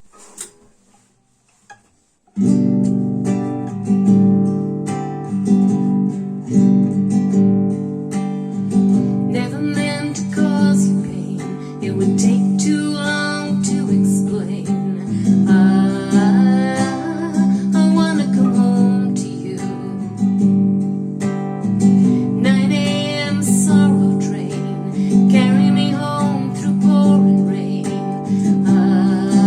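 Acoustic guitar strummed steadily as a song's accompaniment, starting suddenly about two seconds in after a few soft clicks.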